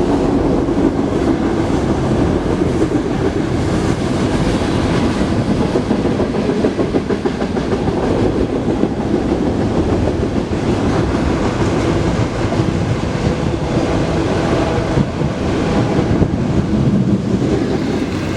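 CN freight train rolling past, with railcar wheels clacking over the rail joints in a steady, continuous run.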